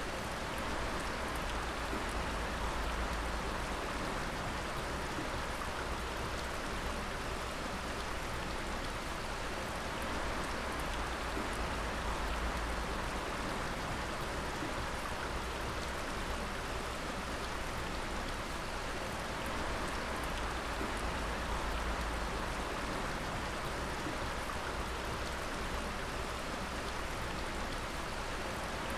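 Water dripping and pattering steadily onto wet rock and pooled water, a continuous dense spatter like rain, with no music.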